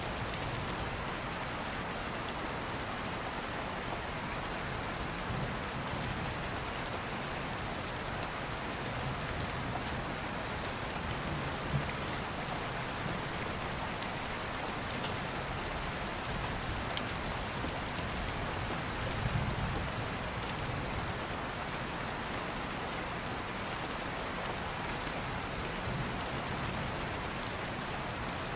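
Steady rain, with a few sharp crackles and pops from an open wood fire and soft low rumbles of distant thunder every few seconds.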